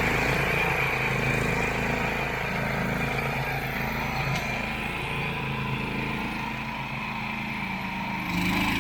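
Engine of a homemade zero-turn ride-on lawn mower running steadily while it mows short, thick grass. The sound eases a little midway and picks up again near the end.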